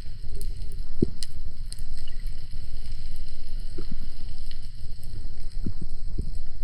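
Underwater sound from a spearfisher's camera: a steady low rumble of water movement with scattered faint clicks and a few short dull knocks.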